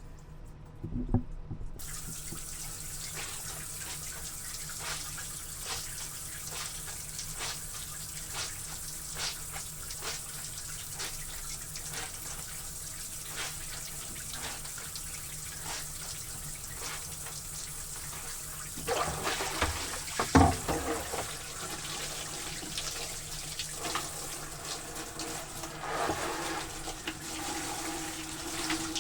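Water running steadily from a tap, switched on about two seconds in, with small splashes and knocks throughout. Louder splashing comes about two-thirds of the way through, with one sharp knock the loudest moment.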